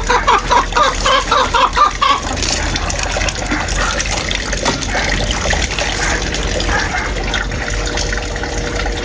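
Water running or pouring steadily. For about the first two seconds a rapid run of short, repeated high notes sounds over it.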